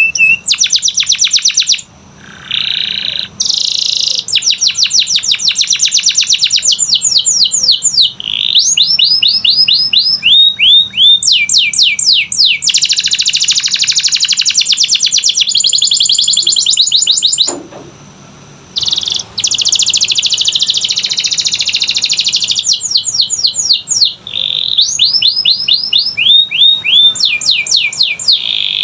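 Canary singing a loud, long song of rapid trills and rolls, fast repeated notes and quick downward-sweeping whistles, with short breaks about two seconds in and again just past halfway.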